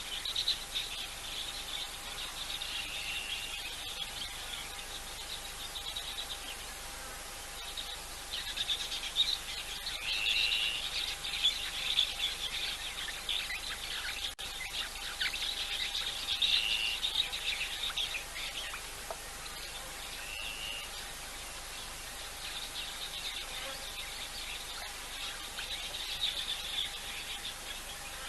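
Birds chirping and twittering with short whistled notes every few seconds, over a faint steady hum.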